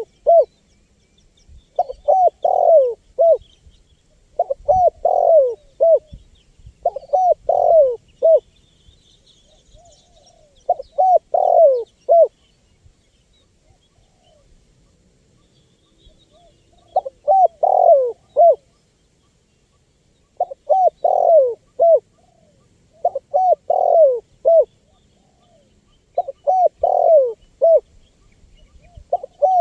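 Spotted dove (tekukur) cooing, a short phrase of a few quick coo notes repeated about eight times, with a longer pause midway. Faint chirps of small birds sound behind it.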